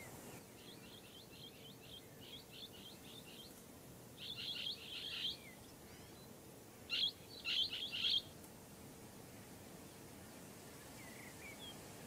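A bird chirping in quick runs of short, high notes: a faint run over the first few seconds, then two louder bursts about four and seven seconds in.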